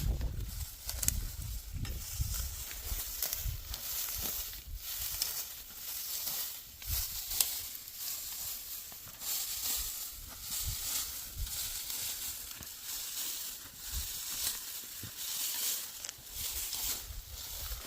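Dry barley stalks rustling and crackling in uneven, repeated strokes as they are cut or pulled by hand at harvest.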